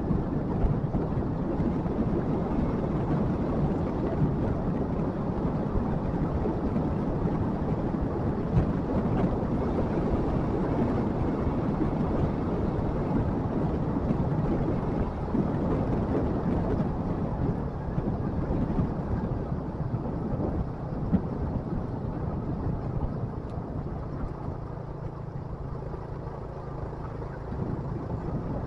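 Motorcycle engine running under way, mixed with wind rushing over the microphone. It eases off and gets quieter for a few seconds near the end.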